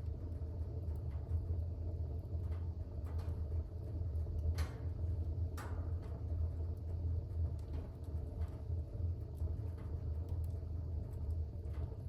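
Fire burning in a fireplace: a steady low rumble from the flames with scattered faint crackles and two sharper pops about halfway through.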